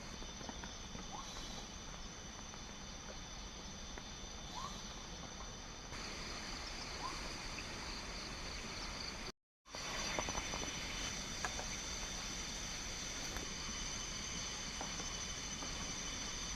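Forest insect chorus: several insects trilling steadily at high pitches, with a few faint short chirps. The sound cuts out for a split second about nine seconds in, then resumes slightly louder.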